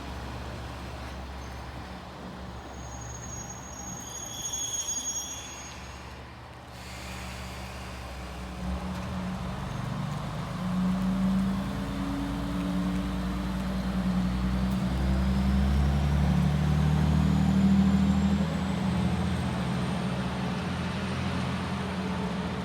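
Train running through the station. A brief high-pitched tone sounds about four seconds in. A low rumble then builds and grows louder from about eight seconds in, and in the second half a thin whine rises steadily in pitch.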